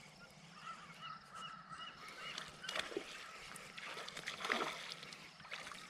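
Faint bird calls over the river's steady hiss: a run of short repeated chirps, then a few louder falling calls.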